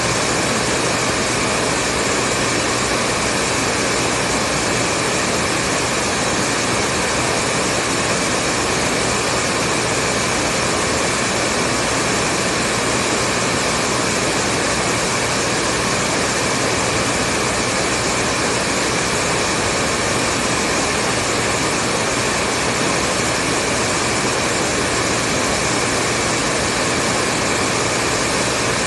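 Hair dryer running continuously: an even, steady whoosh of blown air with a faint steady hum in it, never changing in pitch or level.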